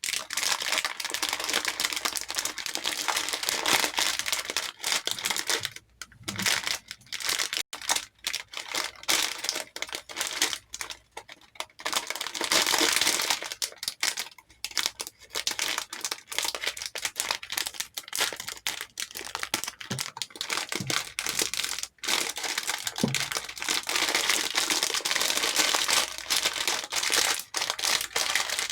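Hair beads clattering against a bowl as they are poured and stirred, a dense run of small clicks broken by a few short pauses.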